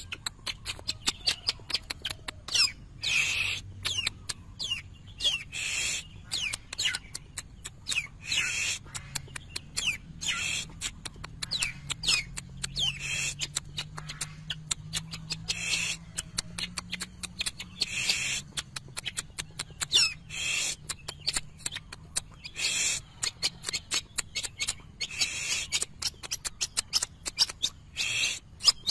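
Long-tailed shrike singing in a fast, busy run of sharp clicks and short sliding whistles, broken every two to three seconds by a louder harsh call.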